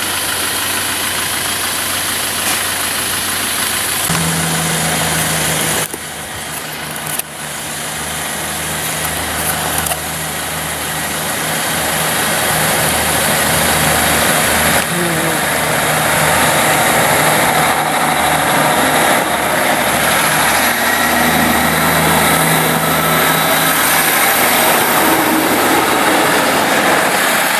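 Engine idling steadily, with a broad rushing noise that builds from about ten seconds in and stays loud.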